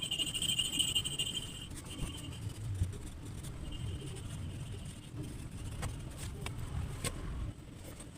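A steady high insect-like trill that stops about two seconds in and returns briefly, over a low rumble that fades near the end, with a few faint clicks.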